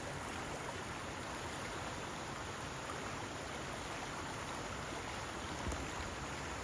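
Steady rushing water, an even hiss with no change in level, cut in and out abruptly.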